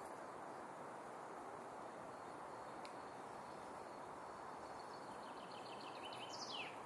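Steady outdoor background noise. From about five seconds in, a songbird sings a quick run of repeated high notes that ends in a falling sweep.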